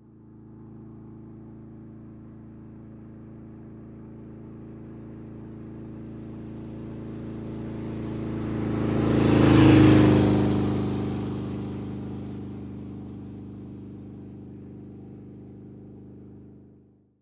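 A motorcycle engine approaching and passing by at steady speed, loudest about ten seconds in, then fading away into the distance.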